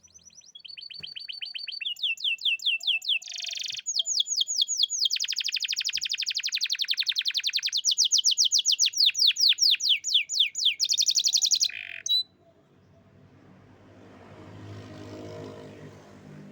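Domestic canary singing a long rolling song: rapid trills of quickly repeated notes, switching to a new trill every second or two, which stops abruptly about twelve seconds in. A faint background sound then swells and fades.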